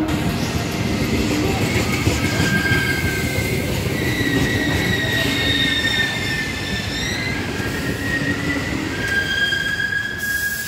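Trenitalia regional passenger train rolling along the platform, its wheels squealing in several high, drawn-out tones over a continuous low rumble from the coaches.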